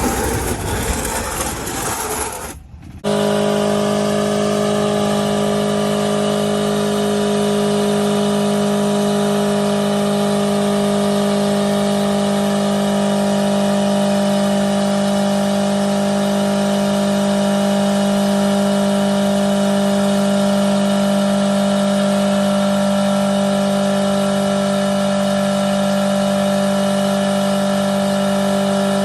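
A vehicle engine held at a steady high speed, one unchanging note with a rushing haze over it, after a brief burst of mixed noise and a sudden cut about three seconds in.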